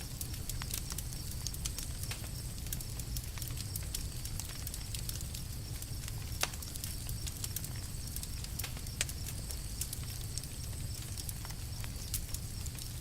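Campfire crackling: irregular sharp pops and snaps over a steady low rumble, with one louder pop about halfway through.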